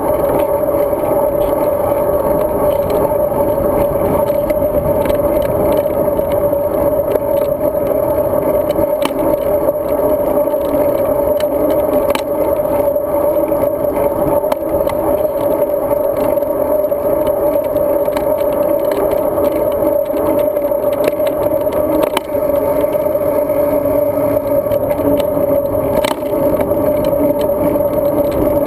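Road bike riding along, heard through a handlebar- or body-mounted GoPro housing: steady wind and road rumble with a constant hum and scattered small rattles and clicks.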